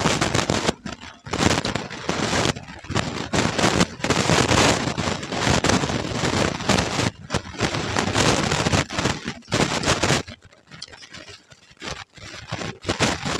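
Close-miked chewing of puffed rice mixed with ghugni: loud, crackly crunching in runs, broken by short pauses near the end.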